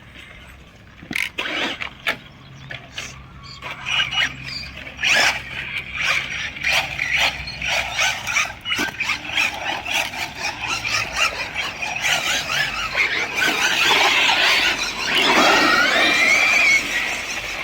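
Electric radio-controlled cars driving hard: a high-pitched motor and gear whine that rises and falls with the throttle, mixed with repeated short tyre squeals and clicks. It gets louder in the second half, with a rising whine near the end.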